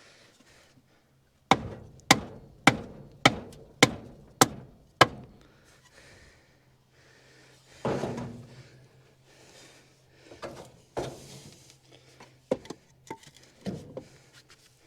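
Sharp blows struck with a 2x4 against the seized 283 small-block V8, its cylinder head off, to try to free the stuck engine: seven quick strikes about every half second, then a heavier thud and a few scattered knocks.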